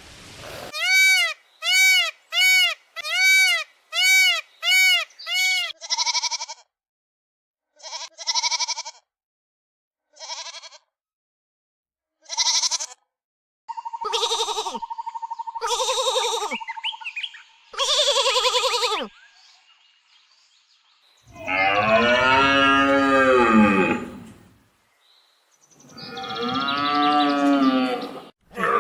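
A series of different animal calls. Seven short arching calls come first in a quick even row, then scattered shorter calls. Two long, low drawn-out calls follow near the end.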